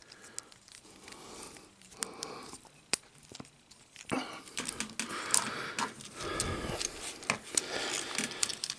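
Plastic parts of a Studio Series 57 Jeep-mode Bumblebee action figure being handled and moved during transformation: a few sharp clicks as pieces are clipped into place, then denser rubbing and scraping of plastic from about four seconds in.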